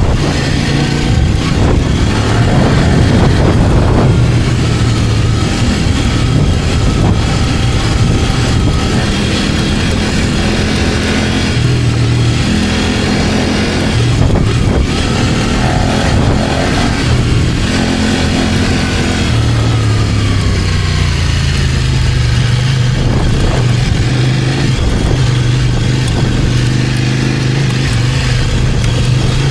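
Kove 800X Pro adventure motorcycle's parallel-twin engine running at modest revs while riding, its pitch rising and falling with throttle and gear changes, under a steady rush of wind and road noise.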